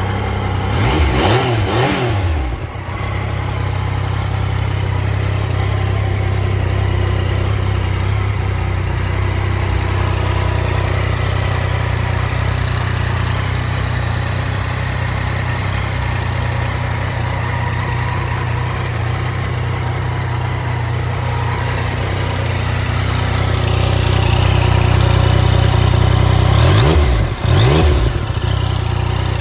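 2020 Yamaha XSR900's inline three-cylinder engine idling steadily, blipped up in revs and back down twice, once about a second in and again near the end.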